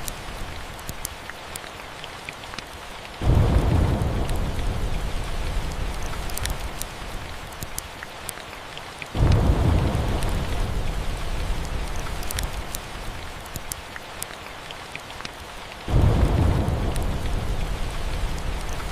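Steady rain with three rolls of thunder, each coming in suddenly, low and loud, and fading over several seconds. Sharp pops of a wood fire crackle over the rain.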